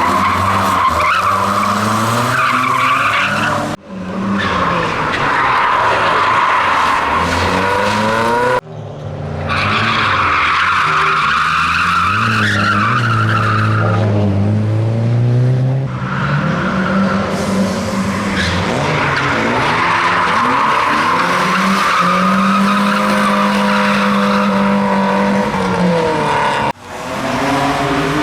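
Drift cars sliding with engines revving up and down and tyres squealing. The sound breaks off sharply three times and picks up again.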